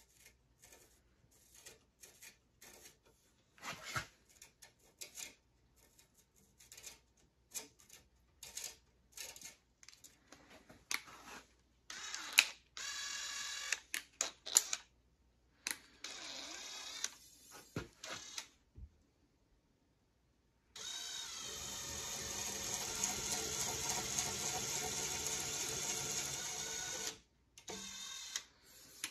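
Clicks and taps of handling at a workbench, with short runs of a small electric motor, then the motor running steadily for about six seconds near the end.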